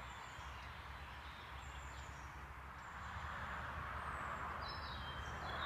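Small birds singing: short, thin, high calls scattered through, with a stepped falling phrase near the end, over a steady background hiss.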